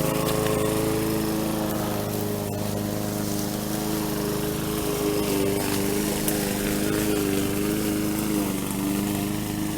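Lawn mower engine running steadily while cutting grass, its pitch wavering slightly.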